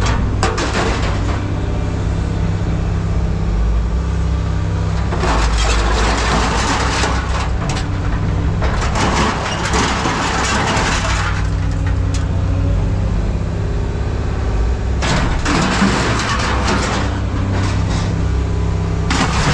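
Engine of heavy scrap-yard machinery running steadily with a low drone, with three long bursts of harsh noise over it, about five, nine and fifteen seconds in.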